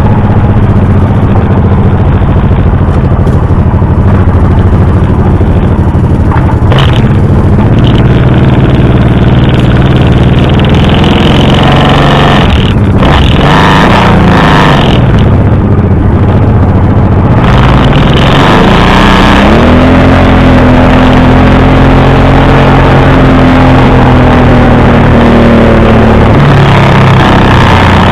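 Honda V-twin motorcycle engine running under way. Its pitch dips and rises again about halfway through, then climbs as it accelerates and holds a steady higher note before dropping back near the end.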